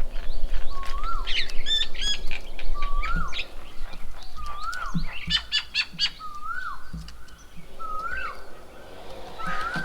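Birds calling: one repeats a short whistled note that rises and then drops, about every second and a half, while others give bursts of higher, sharper chirps.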